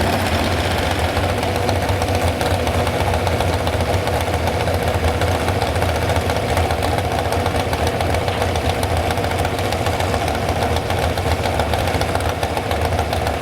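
A large engine idling steadily, with no revving.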